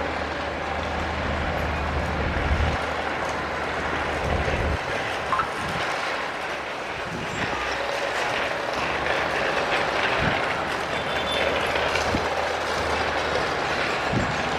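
Crawler bulldozer at work: its diesel engine running steadily under a clanking of steel tracks, with a few short knocks.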